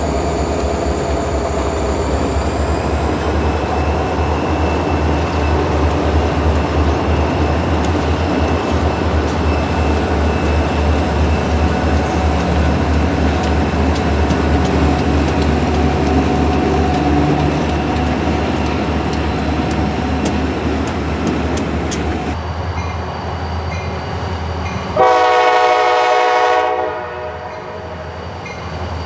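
Diesel freight train running by: a steady engine rumble with wheel noise, and sharp clicks of wheels over the rails toward the middle. The sound changes abruptly about three-quarters of the way in, then a locomotive horn sounds one chord-like blast of about two seconds near the end.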